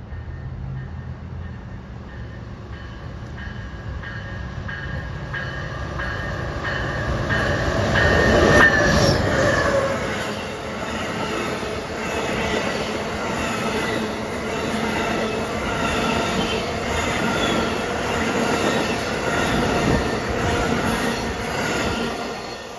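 A train passing, building to its loudest about a third of the way in, then running on with several high steady tones over the rumble of the cars before fading near the end.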